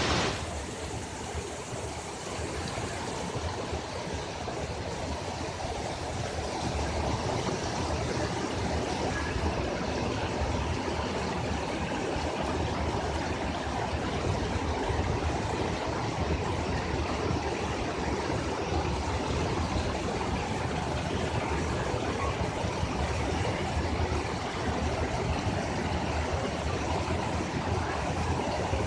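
Steady rush of falling water from a waterfall, an even unbroken noise.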